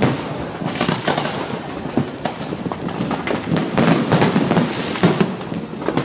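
Fireworks going off in a dense, continuous barrage of bangs and crackles, many overlapping reports with no pause.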